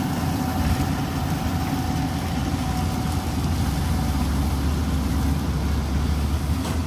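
Engine of a heavy farm machine running steadily with a low drone. A faint, thin whine sits over it and fades out about four seconds in.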